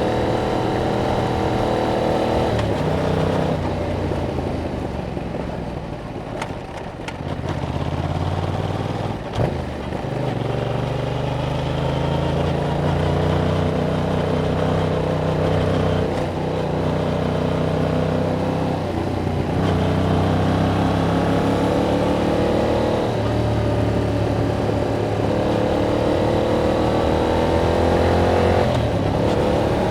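2021 Yamaha MT-07's 689 cc parallel-twin engine on its original exhaust, heard from the bike while riding. Its pitch climbs in long pulls and drops back several times, eases off briefly before ten seconds in, and there is one sharp knock near the ten-second mark.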